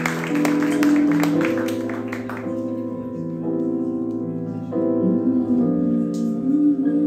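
Live keyboard or piano playing slow, sustained chords that change every second or so, with crisp clicks over the first two seconds. A wavering held note enters near the end.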